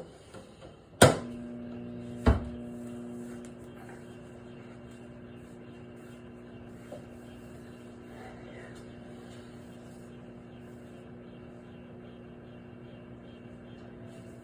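Microwave oven shut and started: two loud clunks just over a second apart, then the oven's steady electrical hum as it runs.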